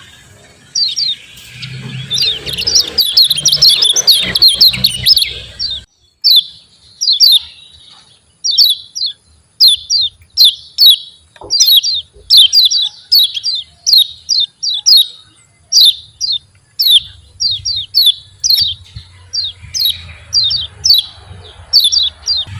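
Kecial kuning white-eye calling: a few seconds of fast, dense twittering, then a long run of sharp 'ciak' chirps, about two a second, each dropping in pitch.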